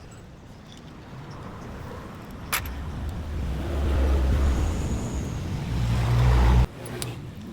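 A motor vehicle engine rumbling. A sharp click comes about two and a half seconds in, then the low rumble builds, rising slightly in pitch, and cuts off abruptly near the end.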